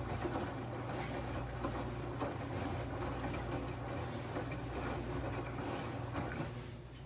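LG 11 kg washing machine running: a steady low motor hum with irregular clicks and rattles, easing off shortly before the end.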